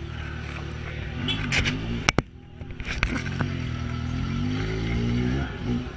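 Yamaha XJ6's inline-four engine with a 4-into-1 Atalla exhaust, running at low revs while riding slowly. About two seconds in there are two sharp knocks and a brief drop, then the revs climb smoothly for a couple of seconds and ease off near the end.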